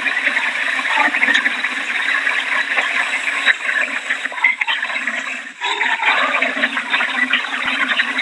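Steady rushing of heavy rain and water from the hurricane, dipping briefly about five and a half seconds in.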